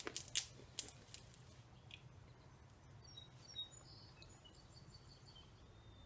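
Faint chirping of small songbirds: a scattered handful of short, high notes. A few sharp clicks in the first second.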